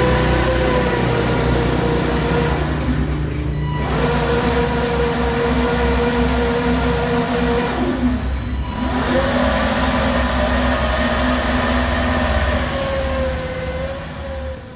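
Motor running with a steady whine, cutting out briefly twice, its pitch rising after the second pause.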